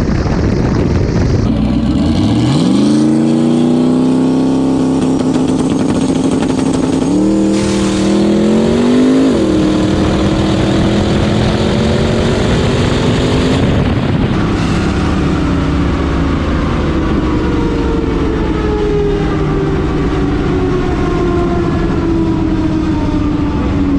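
Turbocharged race truck engine at full throttle: it revs up sharply about two seconds in and holds, climbs again and drops back once around nine seconds, then from about fourteen seconds its pitch falls slowly and steadily.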